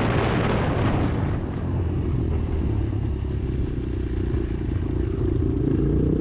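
Motorcycle engine running under way, with wind rush on the microphone that eases after about a second; the engine note rises slightly near the end.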